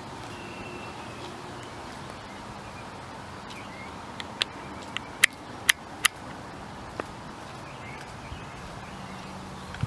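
Pileated woodpecker pecking at wood while foraging: a handful of irregular, sharp knocks in the middle, three loudest within about a second, over a steady background hiss.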